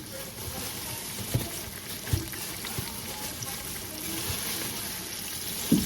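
Chicken sizzling in hot frying grease, with a few dull knocks.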